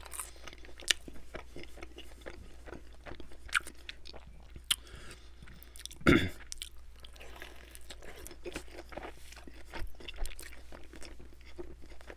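Close-miked chewing of Domino's Brooklyn-style pizza crust dipped in a creamy dip: wet, crunchy bites and mouth clicks, with a loud crunch about six seconds in.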